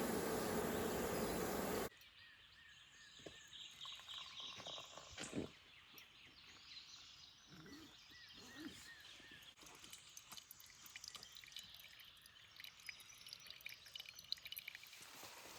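A loud rushing noise for about two seconds, cut off suddenly. Then quiet outdoor ambience: birds chirping now and then, with scattered light crackles and clicks that grow busier near the end.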